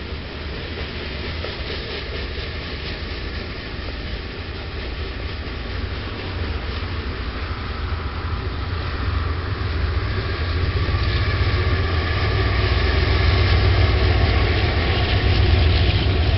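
Diesel locomotives of a long Canadian Pacific train approaching, a deep engine rumble growing steadily louder.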